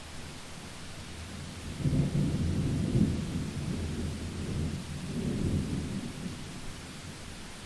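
A thunderclap rumbling over steady rain: a low roll begins about two seconds in, swells a second time past the middle, and dies away before the end, with rain hiss throughout.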